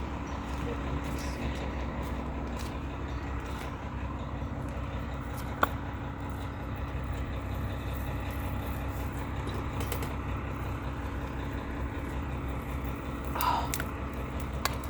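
Steady low background hum with a faint steady tone in it, broken by one sharp click about five and a half seconds in.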